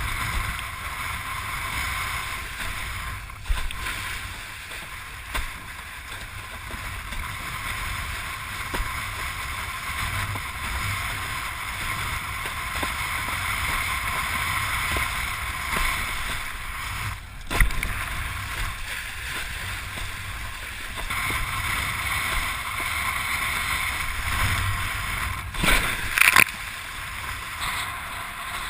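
Steady rush of wind and water as a windsurf board planes along, with a few sharp knocks, one near the start, one about midway and one near the end.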